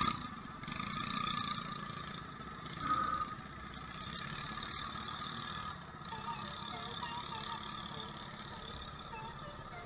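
A mini bike's small engine running steadily, swelling briefly about three seconds in.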